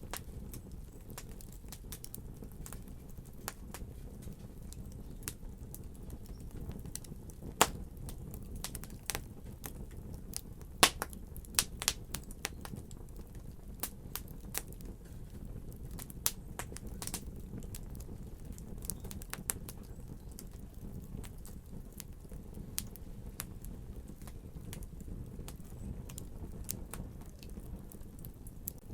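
Wood fire burning, with a steady low rumble and frequent irregular crackles and pops; the loudest pops come about 7 and 11 seconds in.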